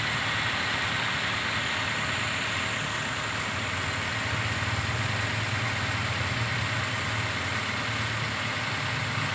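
Toyota Rush's four-cylinder petrol engine idling steadily in the open engine bay. It runs smoothly with no shaking: the rough, vibrating idle has been cured.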